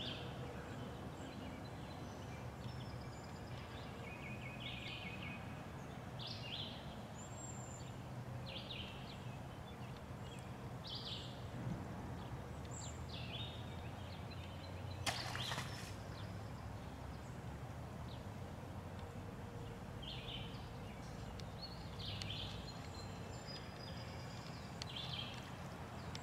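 Outdoor creekside ambience: small birds calling in short high chirps every second or two over a low steady hum, with a single brief sharp noise about halfway through.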